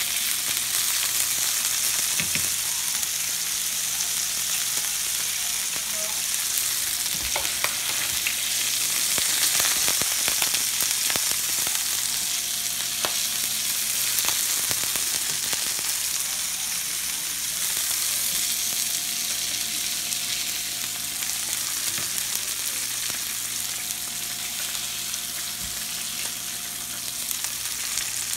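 Burgers frying in hot grease: a steady sizzle with scattered crackling pops.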